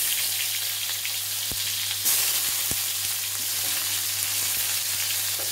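Chopped shallots frying in hot oil in an aluminium wok: a steady sizzle that flares up louder about two seconds in, with a couple of light knocks.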